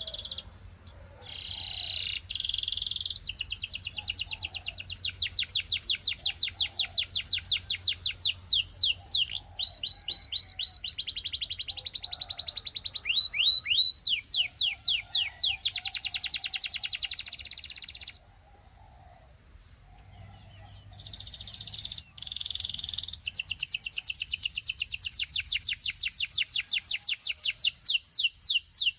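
A canary singing long, rapid trills of repeated high notes, the tempo and note shape changing from one roll to the next. The song breaks off for about three seconds past the middle, then starts again.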